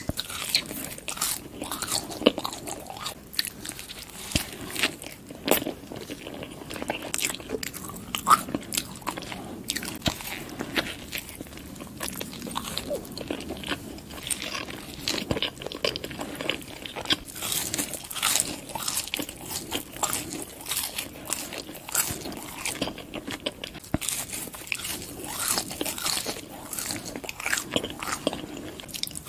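Close-miked eating: biting into and chewing a sesame-seed burger and french fries, with many small, irregular crunches and crackles.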